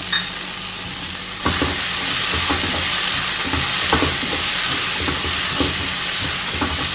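Onions, tomatoes and green chillies sizzling in a non-stick kadai while a flat spatula stirs them, its strokes scraping and knocking against the pan. The sizzle grows louder about a second and a half in. Turmeric powder has just gone in and is being fried until its raw smell is gone.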